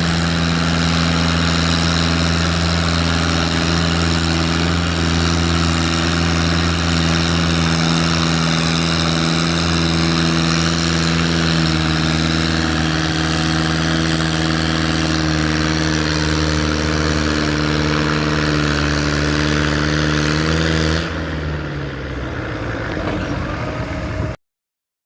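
Massey Ferguson tractor engine running loud and steady. About three-quarters of the way through it is throttled back, its pitch falling, and then the sound cuts off abruptly.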